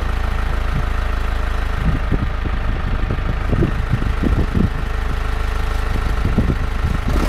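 Vehicle engine idling steadily, with many short, irregular dull knocks over it.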